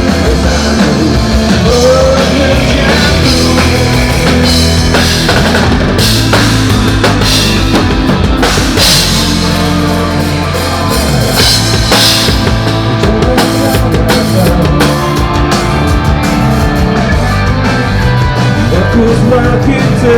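Rock band playing loud and live: drum kit, electric guitar and bass in an instrumental passage, with cymbal hits thickening from about six seconds in.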